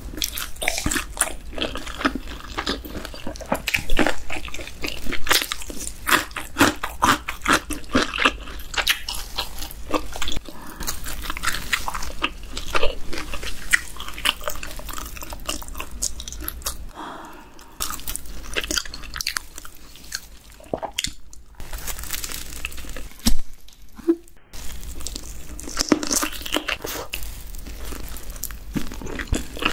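Close-miked crunching and chewing of crispy cheese-powdered fried chicken drumsticks: crackling bites through the crust, then chewing, with a few short pauses in the second half.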